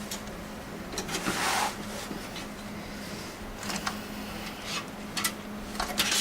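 Handling of PC power cables and a SATA power connector at a hard drive: a brief rustle about a second in, then several light plastic clicks and taps as the connector is fitted.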